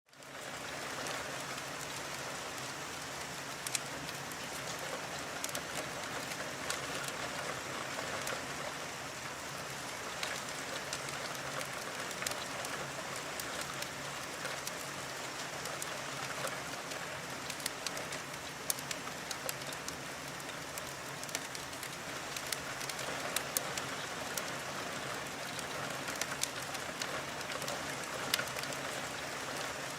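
Steady rain falling, with scattered sharp ticks of drops through the whole stretch; it fades in at the very start.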